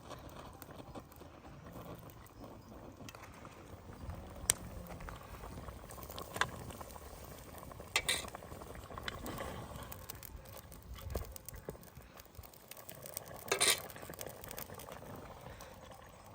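Outdoor cooking sounds: a utensil stirring, scraping and knocking against a pot, with a few sharp clinks over a low steady bubbling.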